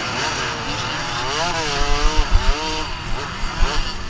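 Motocross dirt bike engines revving up and down, more than one at a time, with a few low thumps around the middle.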